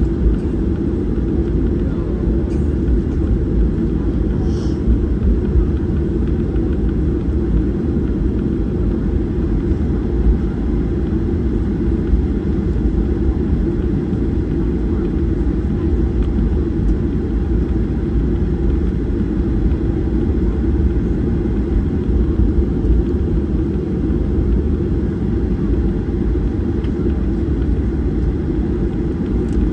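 Steady low rumble of a Boeing 737-800's CFM56 engines and airflow heard inside the cabin, even in loudness throughout.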